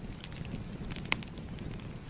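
Wood fire crackling: scattered small pops over a low steady rumble, with one sharper pop about a second in.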